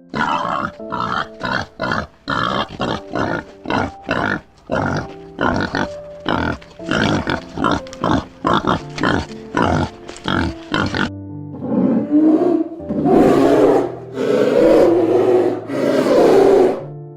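A pig grunting in short sharp grunts, about two a second, for some ten seconds; then a large animal roars several times in long, loud calls. Background music runs underneath.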